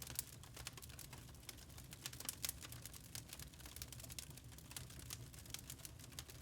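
Wood fire crackling: many sharp, irregular pops and snaps over a low, steady rumble of burning logs.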